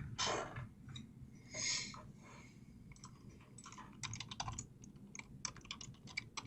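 Faint, irregular clicking of typing on a computer keyboard, coming thickly in the second half, after a couple of soft rustles at the start.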